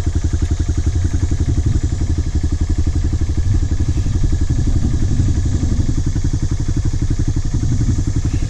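Dirt bike engine idling steadily, a fast even putter with no revving.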